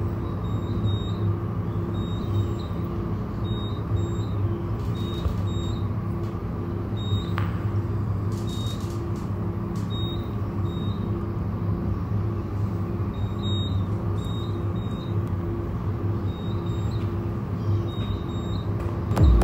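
Ambient electronic drone: a steady low hum with a softly pulsing tone repeating evenly above it and small high blips now and then.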